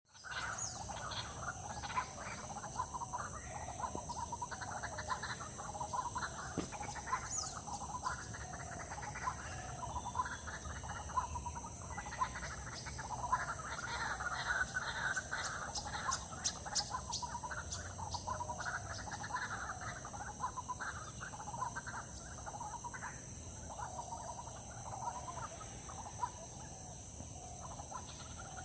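A dense chorus of frogs calling continuously, mixed with bird calls, over a steady high-pitched drone.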